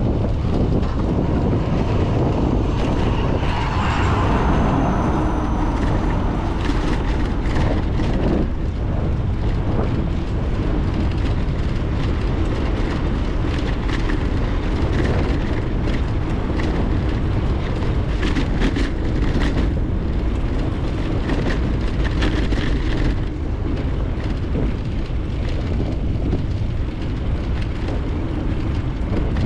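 Wind rushing over a GoPro's microphone while cycling, a loud steady low rumble, with the bicycle's tyres on the road and frequent short rattles and clicks from the bike.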